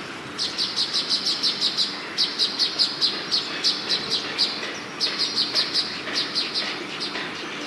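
Baya weavers chattering: three bouts of rapid, high chirps, about five a second, each bout lasting a second or two.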